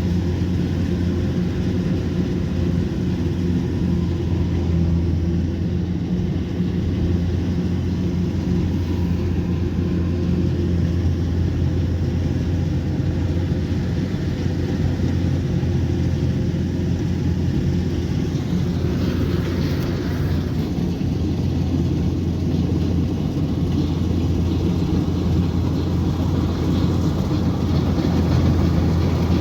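Kubota combine harvester's diesel engine running steadily, a continuous low drone with no change in speed.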